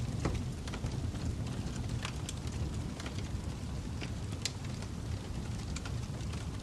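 Fire crackling: irregular sharp pops and snaps over a steady low rumble of flames.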